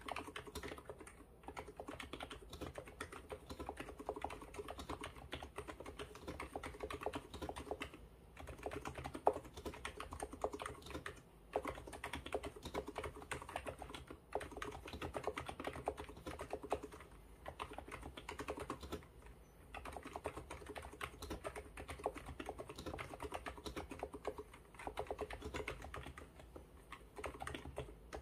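Fast, continuous typing on an ABKO electro-capacitive (Topre-style) keyboard: a dense run of soft key strokes, with short pauses every few seconds.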